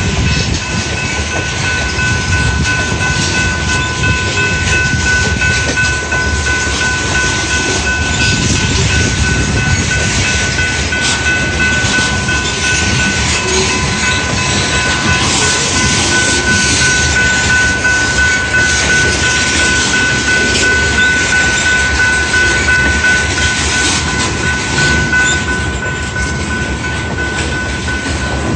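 A long train rolling past close by: steady rumbling and clatter of the cars on the rails, with a thin high steady whine over it.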